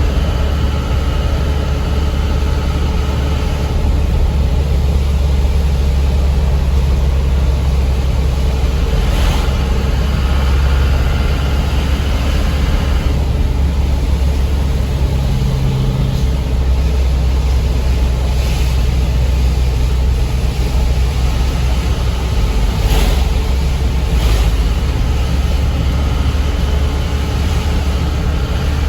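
Light-duty diesel truck engine running steadily on the road, a continuous low drone, with a few faint clicks.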